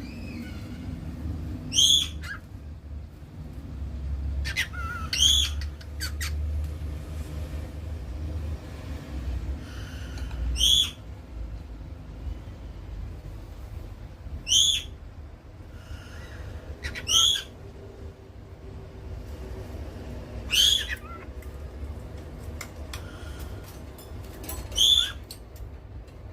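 Cockatiel giving short, sharp calls, seven in all, one every three to four seconds.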